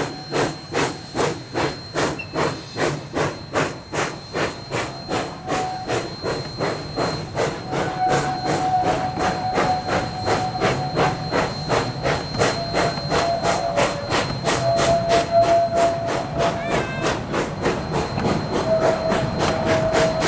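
Narrow-gauge steam locomotive working, its exhaust chuffing about three to four times a second and quickening, over a steady steam hiss.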